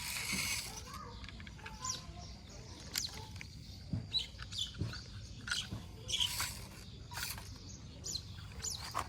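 Birds chirping: short, high calls scattered throughout, with a few sharp clicks over a low rumble.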